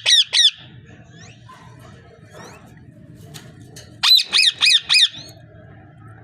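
Parrot squawking: two shrill calls right at the start, then a quick run of about four more about four seconds in.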